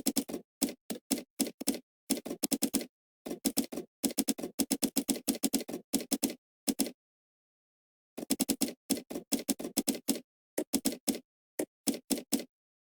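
Typing on a computer keyboard: quick runs of keystrokes in bursts, with a pause of about a second and a half a little past the middle.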